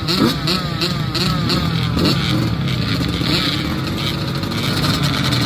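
Several dirt bike engines revving and accelerating at once, their pitches overlapping as they rise and fall.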